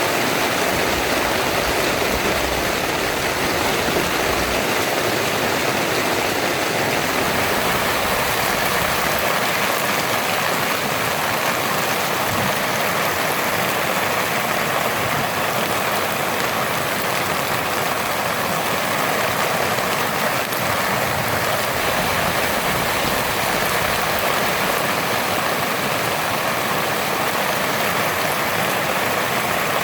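Heavy rain pouring steadily on a tent, a dense unbroken hiss.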